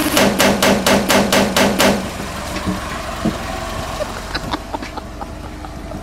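Car engine running, with a quick series of about seven sharp knocks in the first two seconds, then quieter with scattered small clicks.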